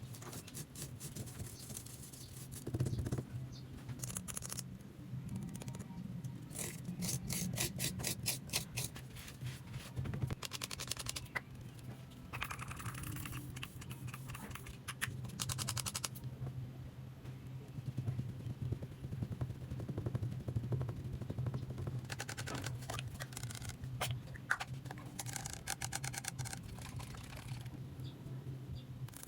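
Makeup tools brushing and scraping over a coconut shell in bouts of quick, rapid strokes, over a steady low hum.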